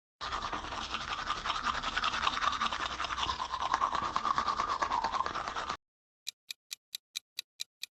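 Teeth being brushed with a toothbrush: steady, quick back-and-forth scrubbing that lasts about five and a half seconds and stops abruptly. It is followed by a run of short clock-like ticks at about five a second.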